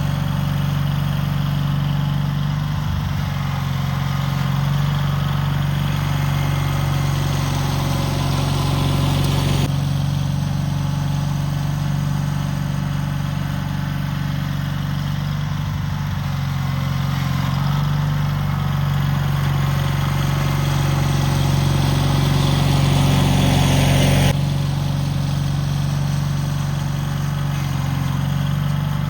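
Cub Cadet 782 garden tractor engine running steadily, its pitch shifting a few times. A broad hissing noise joins it about ten seconds in and cuts off suddenly near the end.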